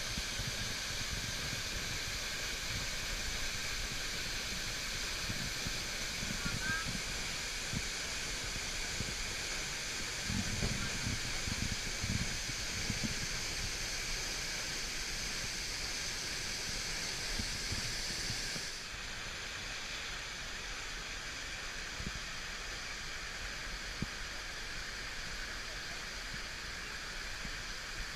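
Steady rushing noise like running water. The sound changes abruptly about two-thirds of the way through, losing its hiss.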